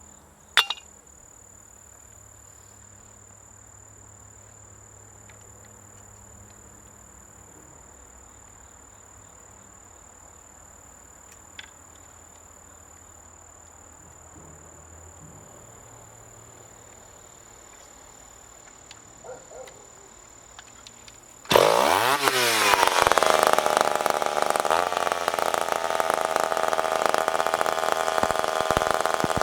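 Crickets chirping steadily with a sharp click near the start; then, about three-quarters of the way through, a ported McCulloch Pro Mac 10-10 two-stroke chainsaw fires, revs up fast and runs at high speed.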